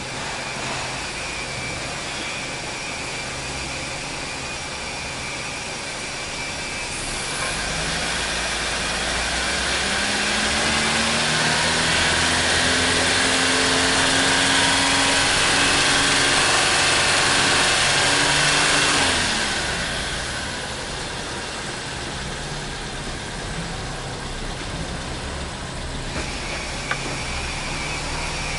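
Subaru R2's small four-cylinder engine idling, then revved up and held raised for about twelve seconds with the pitch slowly climbing, before dropping back to idle.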